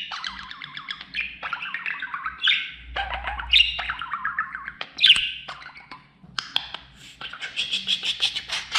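Male budgerigar warbling and chattering: a run of chirps and downward-sliding notes, turning into a fast, even rattling chatter from about six and a half seconds in.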